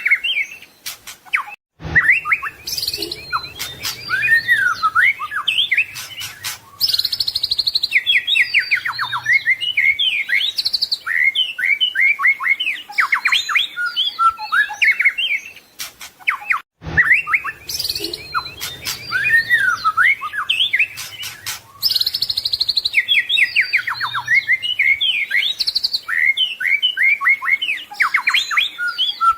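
White-rumped shama (murai batu) singing a fast, varied song of whistles, trills and mimicked phrases from other birds. The song breaks off briefly about 2 s in and again about 17 s in, and the same stretch of song repeats after each break as a loop.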